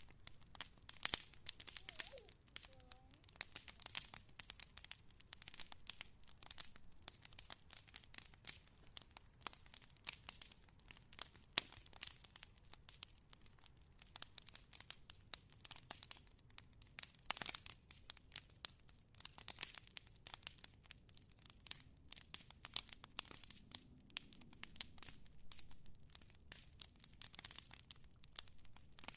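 Fire crackling, with dense, irregular pops and snaps over a low hiss and a few sharper, louder cracks.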